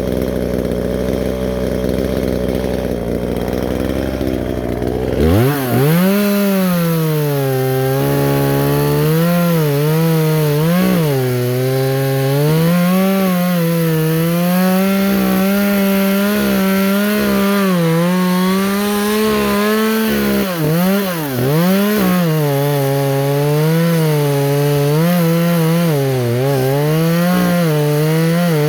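Chainsaw idling low, then opened to full throttle about five seconds in. It cuts into a dead tree, its engine pitch dipping and recovering again and again as the chain bogs under load.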